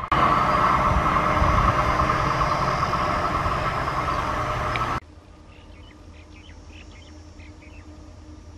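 A diesel-hauled train running on the line: a loud steady rumble with a strong ringing tone. It cuts off abruptly about five seconds in. What follows is a much quieter open-air background with a faint low hum and scattered faint chirping.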